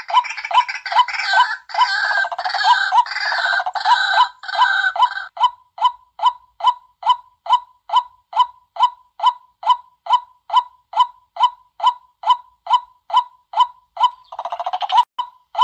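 White-breasted waterhen calls, as played to lure the bird: several seconds of harsh, overlapping croaking, then a steady run of single 'kwak' notes at about three a second, with a short burst of croaking again near the end.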